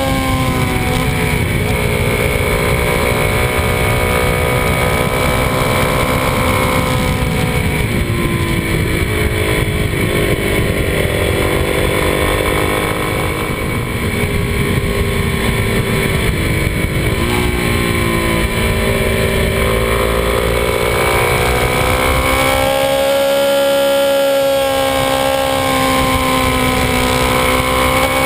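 Kawasaki D-Tracker 250's single-cylinder engine under way on a winding road. The revs rise and fall, with sudden drops near 7 and 17 seconds that sound like gear changes, over steady wind rumble on the handlebar-mounted microphone.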